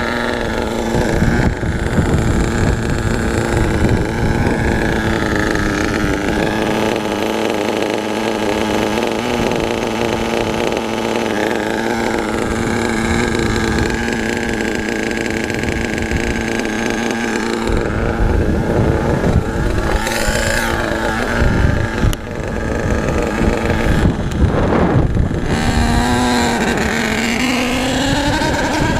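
HPI Savage SS nitro RC truck's small glow engine running and revving, its pitch rising and falling repeatedly, with sweeping rises and falls about two-thirds of the way through.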